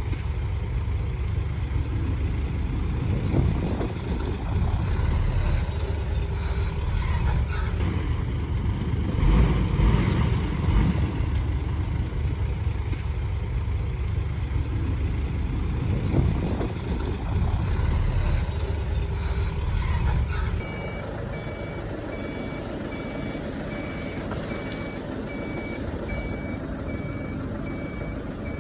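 Heavy diesel earthmoving machinery running with a deep engine rumble and some knocks. About two-thirds of the way through, the sound cuts to a quieter engine with a reversing alarm beeping steadily.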